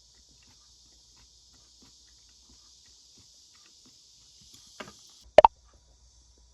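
Steady high-pitched droning of cicadas, with faint small clicks and taps of household handling. About five seconds in, two sharp loud clacks in quick succession stand out, and the cicada chorus turns quieter.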